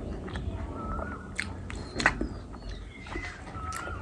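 Close-miked chewing and wet mouth sounds of a person eating, with scattered sharp clicks, the sharpest about halfway through.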